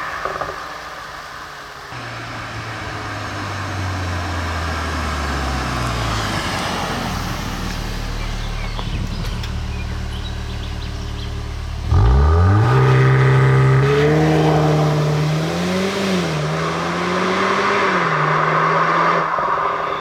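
Audi S3's 2.0-litre turbocharged four-cylinder with an Akrapovic exhaust, revs falling as the car slows, then a low steady drone. About twelve seconds in it goes to full throttle and the revs climb sharply, with two quick upshifts near the end.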